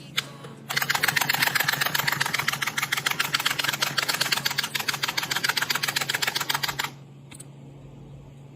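A dog eating fast after being released from a wait command: a dense run of rapid crunching and clicking that lasts about six seconds and stops abruptly, over a low steady hum.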